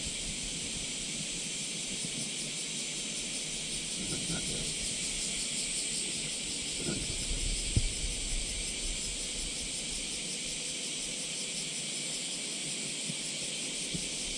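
Loud chorus of cicadas, a steady high shrill hiss with a fine pulsing texture, with a few faint knocks in the middle.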